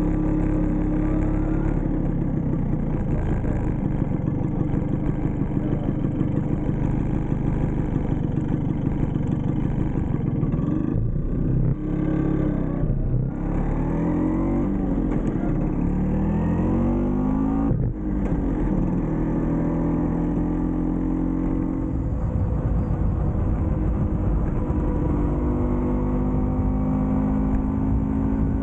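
Vespa PX scooter's two-stroke single-cylinder engine running on the move. Near the middle the revs drop and climb again, with three brief lifts of the throttle for gear changes, and then it holds a steady pitch that creeps up near the end.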